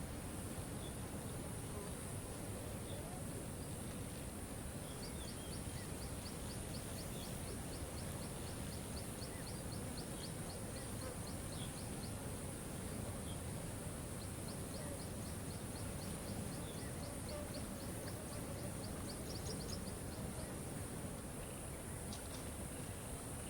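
Waterfall's steady rushing water with a high steady hiss over it, while a bird repeats short high notes, about three or four a second, for most of the stretch, with a few scattered chirps besides.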